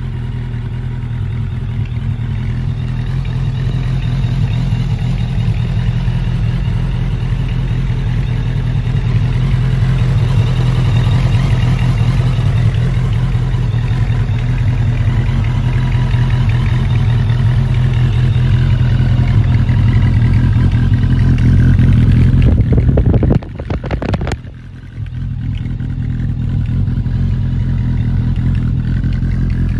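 Suzuki GSF1200S Bandit's air/oil-cooled inline-four engine idling steadily, with a short break in the sound about three quarters of the way through.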